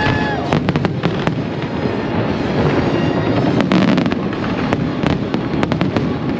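Fireworks display bursting without pause: a dense steady din of shell bursts with several clusters of sharp crackling pops.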